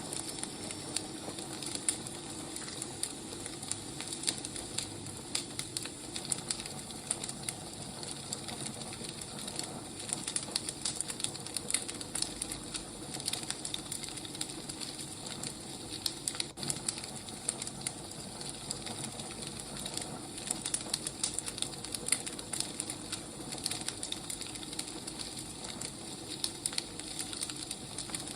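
Wood fire crackling: a steady hiss with frequent sharp pops and snaps from the burning logs.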